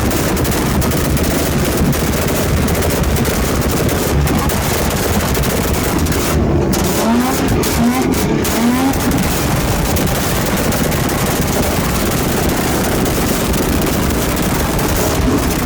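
Car engine running loud and hard, with a rapid crackling rasp and a few short rising pulls in pitch in the middle.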